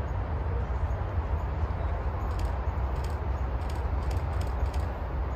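Train rolling past: a steady low rumble with light clicks, some in close pairs, of wheels passing over rail joints from about two seconds in.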